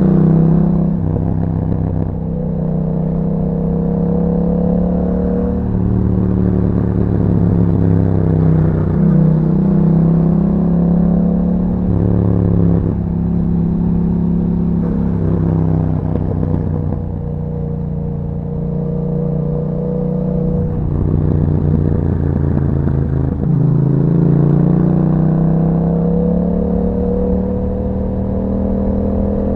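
2021 Yamaha MT-07's parallel-twin engine through an Akrapovic exhaust, ridden on the road: the revs climb and then drop back several times as it accelerates and changes gear, with short stretches of steadier running in between.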